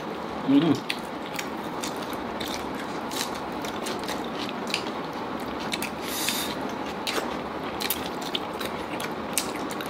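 Close-miked eating of chicken curry pieces: chewing and gnawing, with many small irregular clicks and crackles. A brief voiced murmur comes about half a second in.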